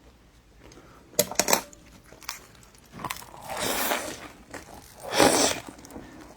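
Close-up eating sounds: crisp fried dough cake (youbing) being bitten and chewed. A few sharp crunchy clicks come about a second in, then two longer crunching, crackling bites in the second half.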